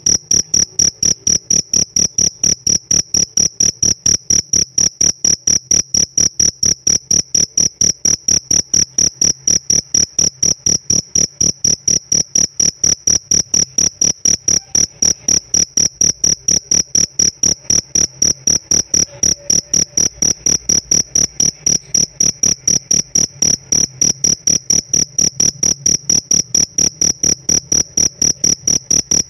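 Field cricket chirping steadily, a high, pure-toned chirp repeated very evenly at about four chirps a second.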